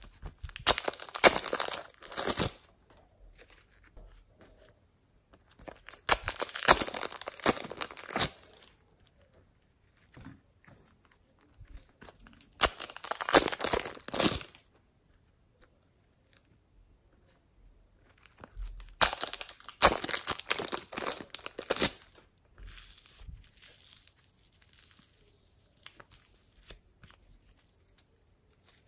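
Slime being squeezed and kneaded by hand, crackling and popping in four bouts of a few seconds each, with quieter crackles after the last one.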